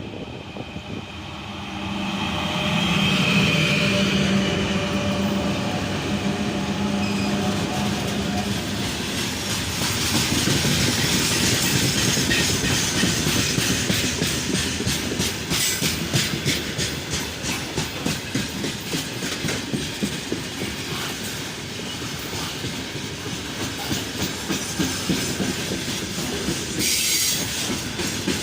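3ES5K electric freight locomotive passing with a steady hum for the first several seconds, followed by the freight wagons' wheels clicking over rail joints in a steady rhythm.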